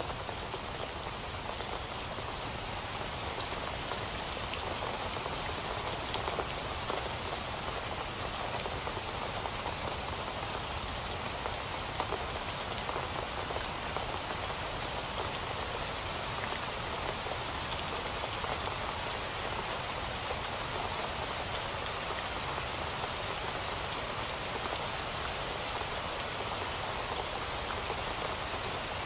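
Steady rain falling, an even hiss of many drops with fine scattered drop ticks.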